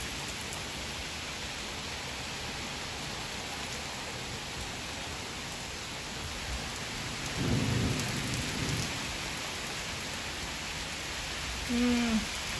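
Steady heavy rain falling on trees, grass and pavement, with a low rumble of thunder about seven seconds in that fades over the next two seconds.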